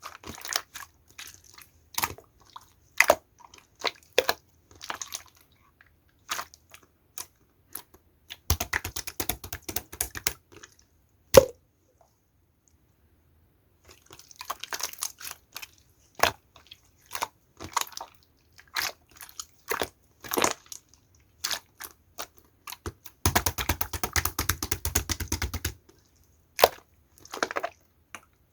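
Clear slime being handled, with scattered sharp clicks and pops and two spells of rapid crackling, each about two seconds long, around a third of the way in and again near three quarters. It goes silent for about two seconds just before the middle.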